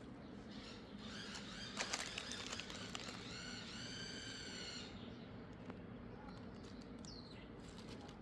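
Outdoor ambience with bird calls: a cluster of chirps and clicks, then one drawn-out high call held for about a second and a half, and a short falling chirp near the end.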